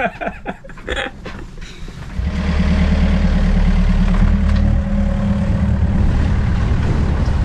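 Sailboat's inboard engine starting about two seconds in and running at a steady low idle as the boat gets under way.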